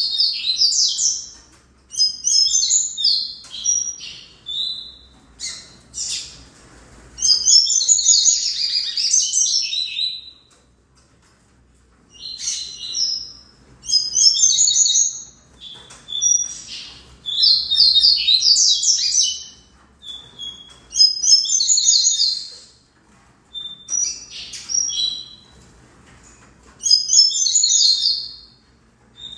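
Double-collared seedeater (coleiro) singing: repeated bursts of quick, high twittering phrases, each a second or two long, separated by short pauses.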